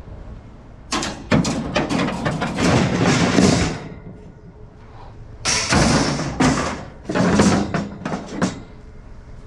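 Goods being handled and sorted by hand: rustling with knocks and thuds as items are moved and set down, in three spells, about a second in, about five and a half seconds in, and around seven seconds in.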